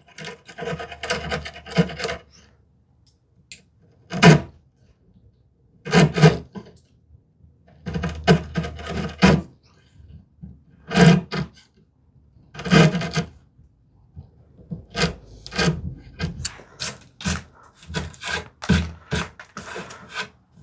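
A chisel paring cherry wood by hand, pushed through the grain in a series of short scraping strokes, coming quicker and shorter in the last few seconds.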